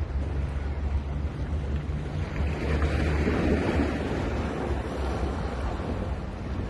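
Ocean waves on a beach, one wave breaking and washing in about three seconds in, over a steady low rumble of wind on the microphone.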